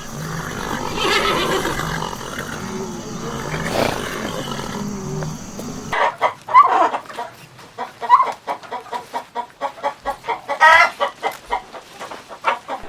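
Chickens clucking and squawking. About six seconds in the sound cuts abruptly to a quicker run of short, sharp clucks with a few louder squawks.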